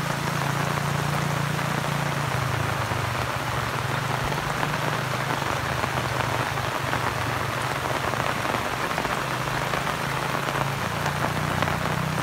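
Steady rain falling: an even, unbroken hiss with a low steady hum underneath.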